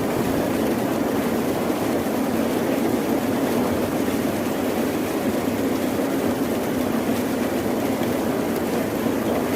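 Steady rain falling: an even, unbroken hiss with a low rumbling body and no distinct drops, thunder or wave swells.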